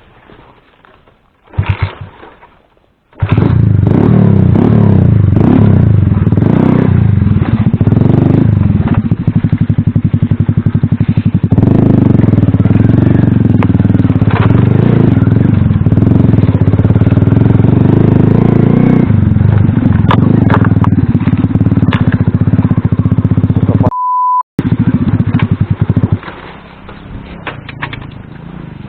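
Alpha small motorcycle's single-cylinder engine running hard under riding load, its revs rising and falling, very loud and distorted, starting about three seconds in and easing off near the end. A short beep cuts in about three-quarters of the way through.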